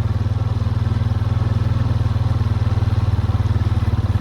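Vehicle engine running steadily at low speed, a low, evenly pulsing rumble.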